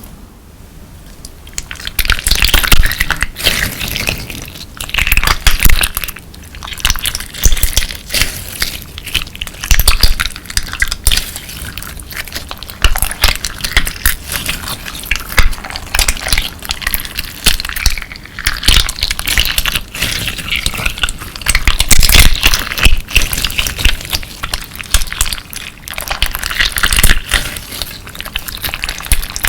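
Clear slime mixed with colourful crystal beads being squeezed and kneaded by hand. Dense crunching and crackling comes in repeated waves, starting about a second and a half in.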